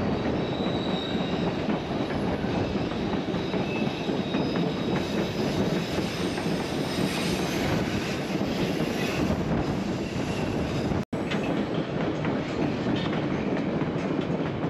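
Narrow-gauge train running on its rails, a steady rolling rumble and rattle of wheels and cars, with a faint high wheel squeal about a second in. The sound cuts out for a split second about eleven seconds in.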